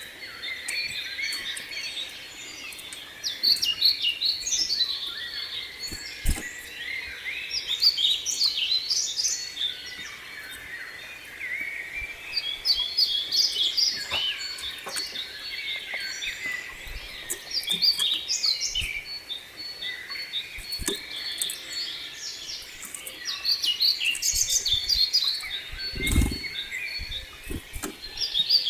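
Small songbirds singing and calling, many short overlapping chirps and trills with no pause. A few low thumps sound near the end.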